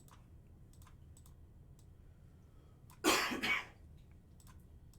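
A person coughing once, about three seconds in, over faint, scattered clicking at a computer.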